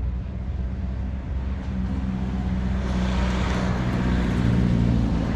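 A motor engine running steadily with a low hum, joined about three seconds in by a swelling rush of noise, like a vehicle passing close by.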